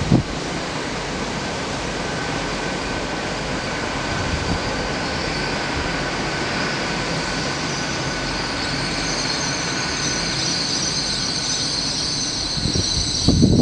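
GWR Intercity Express Train (Hitachi bi-mode) passing at speed: a steady loud rush of wheel and rail noise. High ringing tones build from about eight seconds in. Near the end come gusts of wind on the microphone.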